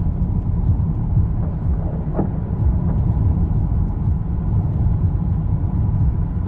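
Wind buffeting the microphone outdoors near a tornado: a loud, steady low rumble, with a faint brief voice about two seconds in.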